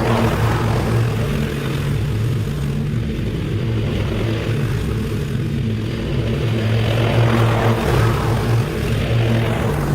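Small petrol engine of lawn-cutting equipment running steadily under load. A hiss of cutting rises and falls every few seconds over the steady engine note.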